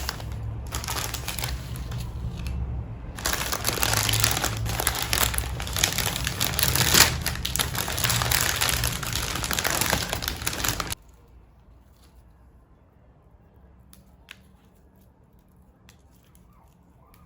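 Paper or plastic wrapping crinkling and rustling as it is handled, pausing briefly about two seconds in and cutting off suddenly about eleven seconds in. After that there is only low room tone with a single small click.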